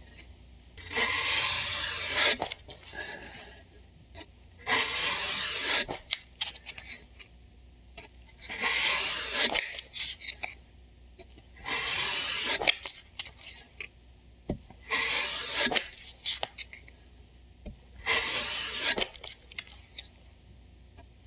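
Slow hand abrasive work on a knife in progress: six long strokes, each about a second and a half, repeating every three to four seconds.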